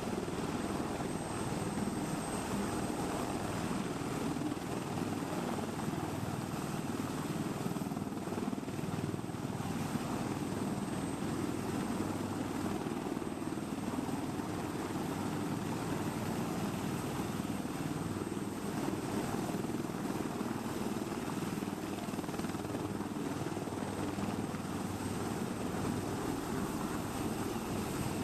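Helicopter running steadily, its rotor and engine noise continuous without a break.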